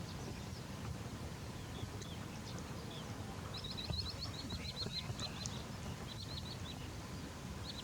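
A bird calling: a quick run of short high chirps starting a few seconds in and lasting about two seconds, then a shorter run, over a steady low outdoor rumble.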